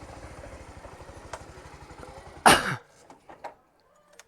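Motorcycle engine idling with an even low pulsing, then switched off about two and a half seconds in, with a loud brief rush of noise as it stops. After that only a few faint clicks.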